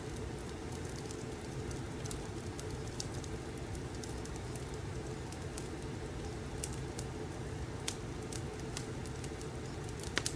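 Wood fire crackling: a steady low rumble with scattered sharp pops and snaps, a quick cluster of louder pops near the end.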